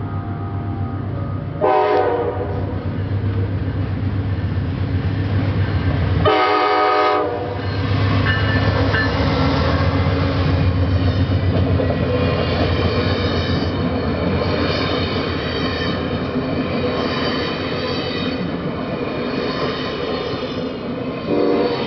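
Amtrak passenger train passing through a grade crossing. The diesel locomotive's horn sounds two blasts of about a second each, about 2 s and 6 s in, over the steady low rumble of the engine and the passenger cars rolling by on the rails, with a shorter horn-like note near the end.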